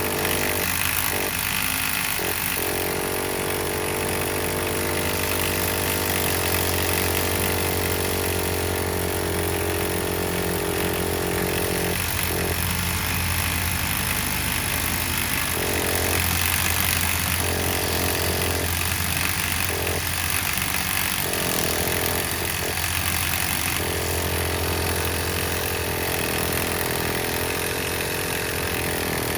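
Impact driver with a half-inch socket cranking the nitro engine of a Traxxas Nitro Sport RC truck, running without a break. The engine sputters a little but doesn't catch: it is getting fuel but not igniting, which the owner thinks may be down to old fuel.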